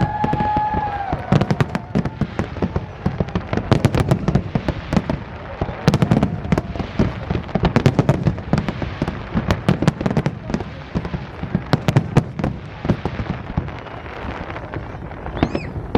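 Fireworks display: a dense, continuous run of bangs and crackling reports, with low rumbling between the louder blasts.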